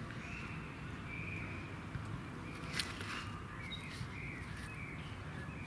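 Small birds chirping in short, repeated calls over a steady low background rumble, with one sharp click a little under halfway through.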